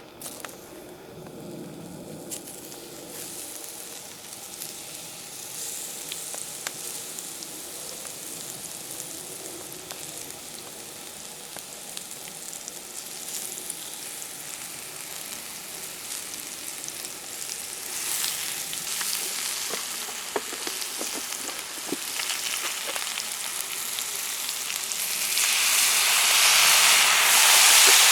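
Food frying in a pan over a campfire: a steady sizzle with a few small pops, turning much louder near the end.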